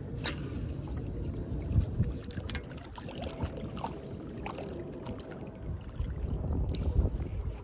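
Wind rumbling on the microphone over water washing along a rock jetty, with a few sharp clicks.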